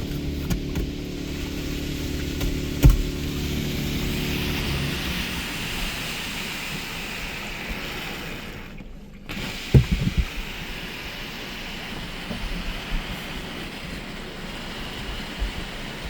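Water jets of a Belanger Kondor KL2 touchless car wash spraying over the car, heard from inside the cabin as a steady hiss. A steady machine hum stops about five seconds in, and a few dull thumps come near the ten-second mark.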